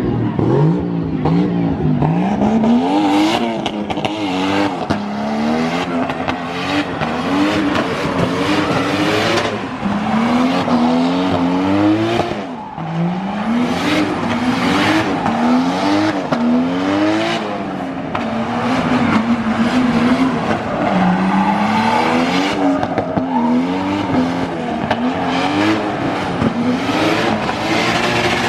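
A drift car's engine revving hard again and again, its pitch climbing and dropping back about once a second, with tyres squealing as the car drifts.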